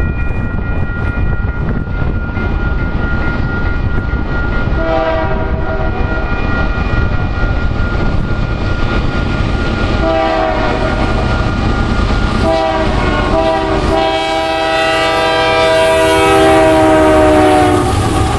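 Canadian Pacific freight train's diesel locomotive horn sounding the grade-crossing pattern: long, long, short, long, the last blast held about four seconds. Under it runs the steady rumble of the diesel locomotives.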